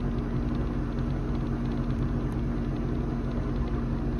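Boat engine running steadily: an even low hum with a few steady low tones.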